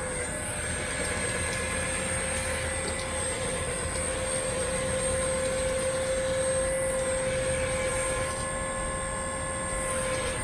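Hydraulic pump of a large RC model CAT 336D2 excavator whining steadily as the machine is worked, one held note with a little more level in the middle of the stretch.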